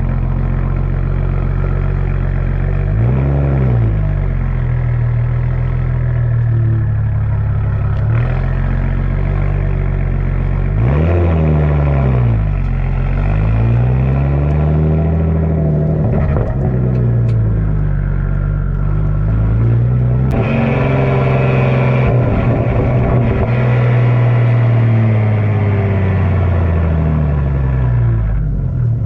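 BMW 335i's single-turbo N54 straight-six engine under driving, its pitch rising and falling several times as it revs up and drops back.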